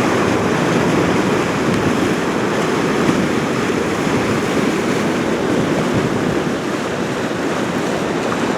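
Fast-flowing floodwater rushing in a steady, loud, even roar of water, with some wind on the microphone.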